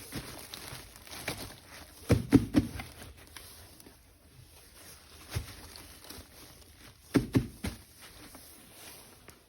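Hard plastic toy parts being handled: two quick runs of three or four knocks, about two seconds in and again about seven seconds in, with lighter clicks between.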